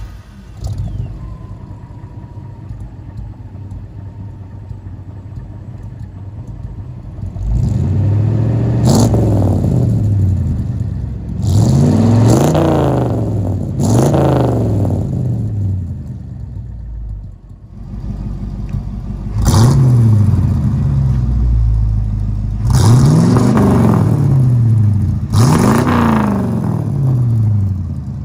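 Stock 302 Ford V8 with a new, not yet tuned Edelbrock AVS2 650 carburetor, idling and then revved about six times, each rev rising and falling back to idle. The engine takes the throttle cleanly.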